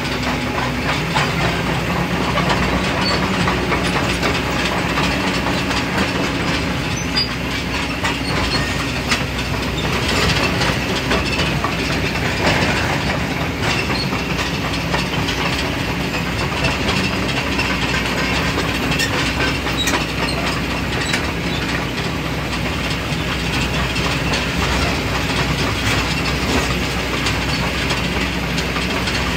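Excavator's diesel engine running steadily under load, with a dense mechanical noise and scattered small clanks.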